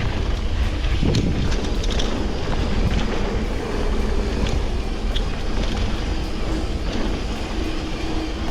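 Steady wind rushing over the microphone while riding a bike, with scattered light clicks and rattles.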